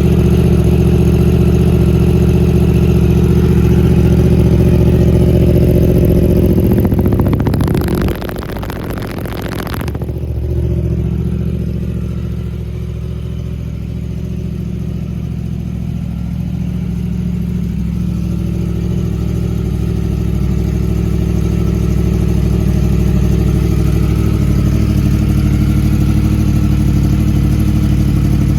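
An engine running with a steady, even note. About eight seconds in the sound turns briefly to a dense rattle and drops in level, then slowly grows louder again.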